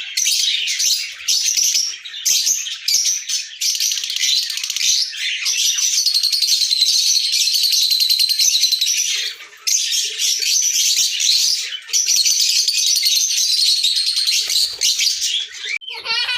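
Many lovebirds chattering: a dense, continuous run of high, rapid chirps and shrieks, with an unbroken buzzy trilling stretch in the middle.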